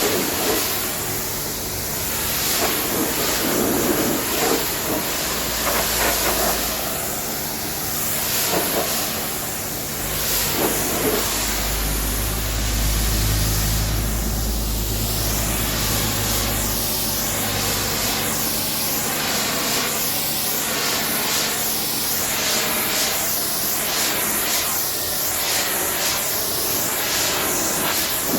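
Pressure washer spraying water onto a truck: a steady hiss that wavers and sweeps as the spray moves. A low hum swells for several seconds around the middle.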